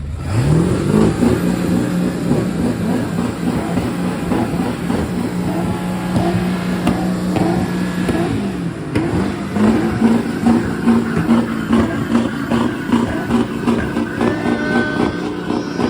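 Pickup truck engine revved up hard and held at high revs, easing off briefly about nine seconds in, then climbing and held high again.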